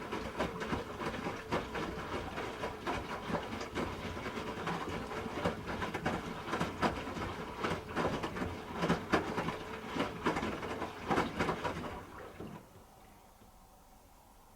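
Hoover H-Wash 300 Plus washing machine tumbling its drum during a rinse: a steady motor hum with the laundry knocking in the drum. It stops about twelve seconds in.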